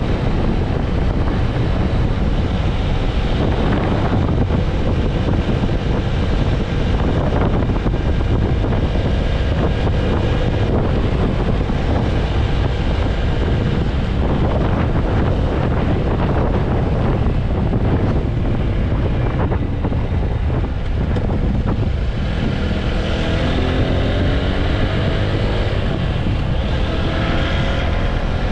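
Heavy wind buffeting on the microphone of a TVS Apache RTR 160 4V motorcycle at highway speed, its single-cylinder engine running underneath. About three quarters of the way through, an engine note rises steadily in pitch.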